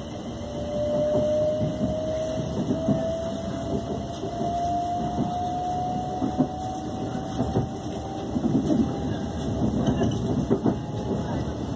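Inside a Class 350 Siemens Desiro electric multiple unit on the move: a single motor whine climbs slowly in pitch as the train picks up speed, over a low running rumble. The wheels click and knock unevenly over the track, more often near the end.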